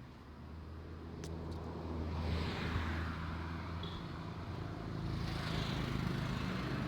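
Road traffic: motor vehicles passing, their engine hum and tyre noise building over the first two seconds and staying loud.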